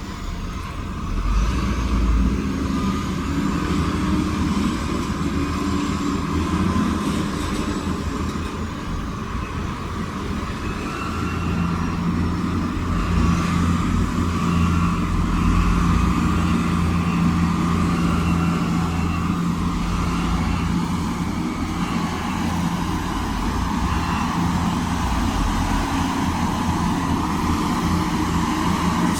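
Diesel engines of heavy earthmoving machinery running steadily, with one engine's hum growing stronger for about ten seconds in the middle.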